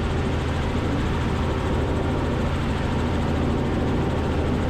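Robinson R44 helicopter's engine and rotor noise in flight, heard through the cockpit intercom: a steady low drone with an even hiss above it.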